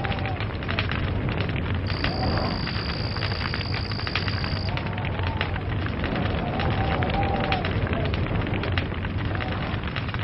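Log fire crackling, with dense irregular pops over a steady low rumble. A steady high-pitched whine starts about two seconds in and lasts about three seconds.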